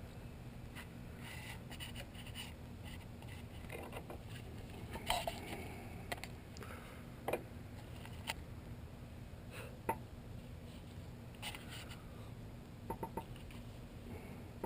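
Small clicks and light scrapes of a Hitachi 870 scale model excavator and its pin-on demolition attachments being handled and moved, a handful of separate taps with the sharpest about five seconds in, over a steady low hum.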